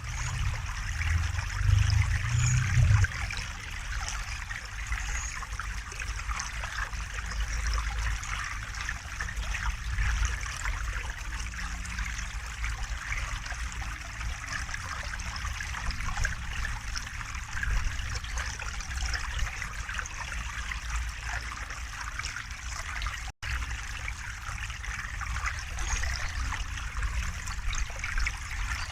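River water flowing and trickling steadily, with a low rumble for the first three seconds. The sound cuts out for a split second about 23 seconds in.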